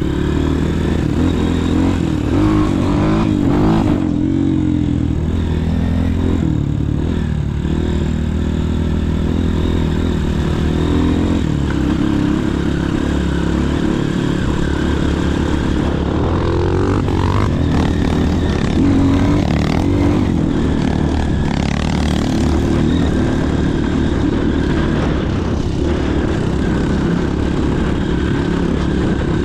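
Motorcycle engine running steadily under way, its pitch shifting a little with the throttle.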